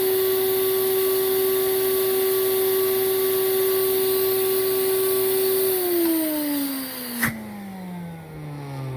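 Hoover Celebrity vacuum cleaner motor running with a steady whine and rush of air, switched up to its high speed for an airflow reading. About six seconds in it shuts off and the whine falls in pitch as the motor spins down, with one sharp click partway through the run-down.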